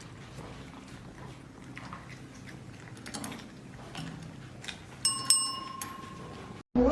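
Faint clicks and ticks, then about five seconds in a short metallic ring, like a small bell, that fades within about a second.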